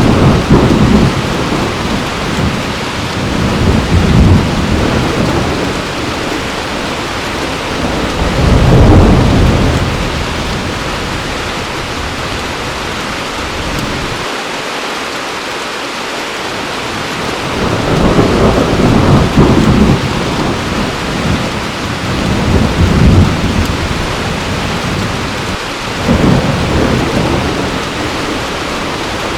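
Heavy, steady rain with repeated rolls of thunder rumbling low, swelling and fading every few seconds, with a lull in the thunder about halfway through.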